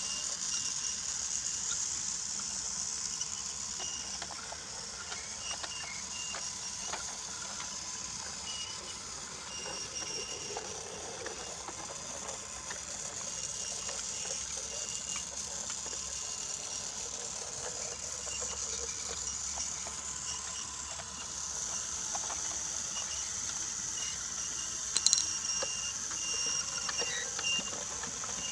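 Motorised Brio toy train running on wooden track: a steady high whirring of its small motor and gears with light ticking of the wheels, and one sharp click near the end.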